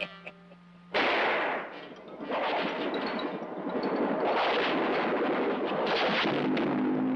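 Cartoon avalanche sound effect: a sudden loud crash about a second in, then a long, dense rush of crashing and sliding snow.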